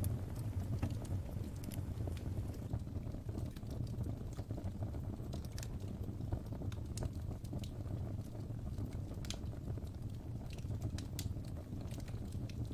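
Wood fire in a fireplace crackling: a steady low rumble of flames with irregular sharp pops and snaps from the burning logs.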